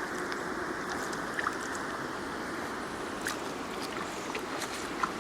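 Steady rush of running stream water, with a few faint small ticks.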